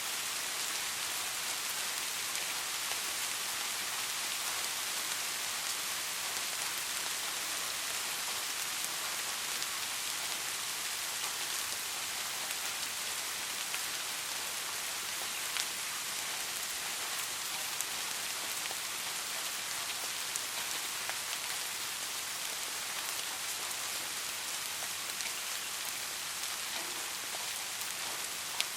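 Soft rain falling steadily, an even patter of drops with now and then a single louder drop striking close by.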